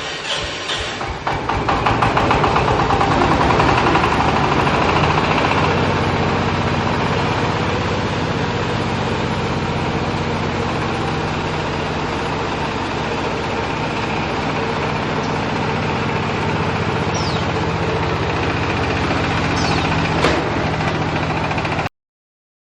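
Silage baler-wrapper machine running under power: its motor picks up about a second in, then holds a steady drone. A brief click comes near the end, and the sound cuts off suddenly.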